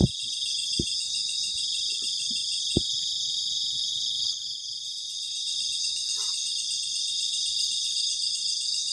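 Chorus of field crickets trilling steadily and loudly in the night forest. A few sharp clicks sound in the first three seconds.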